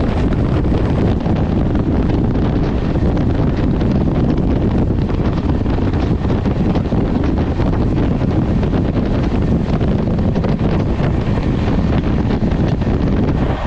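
Wind rushing over the microphone at the open door of a moving passenger train, over the steady running rumble of the coaches on the rails.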